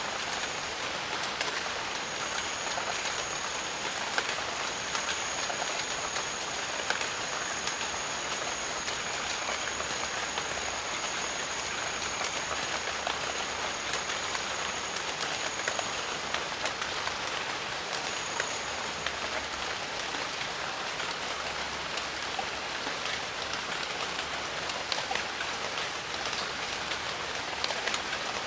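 Steady rain falling, with many individual drops ticking. A thin, high, steady tone runs through the first half and comes back briefly about two-thirds of the way in.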